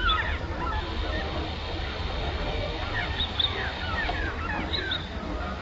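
Small songbirds chirping: many short, quick calls and sliding notes, overlapping and scattered throughout, with a few sharper high notes a little past the middle, over a steady low rumble.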